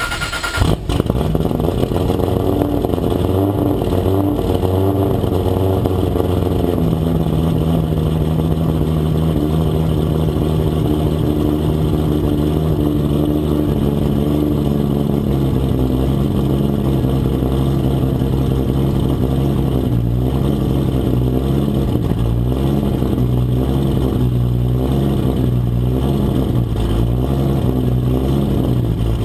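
Toyota Supra MK4's 2JZ-GTE straight-six engine running at a held, nearly steady speed, its pitch shifting only slightly and wavering a little in the latter half.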